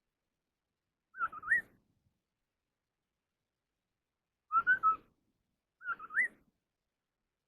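Họa mi đất, a scimitar babbler, singing its challenge song: three short whistled calls a few seconds apart. Each call is two or three fluty notes, and the first and last calls end in an upward slur.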